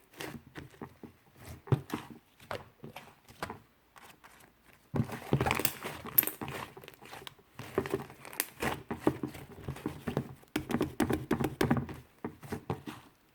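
Hands squishing and pressing a fluffy slime, with irregular sticky crackling and small pops. It goes briefly quiet around four seconds in, then grows busier and louder.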